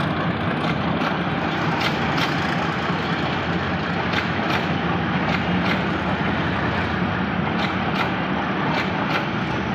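Passenger train rolling past: a steady rumble of coaches with the diesel locomotive's engine running, and the wheels clicking in pairs every second or two as each bogie crosses a rail joint.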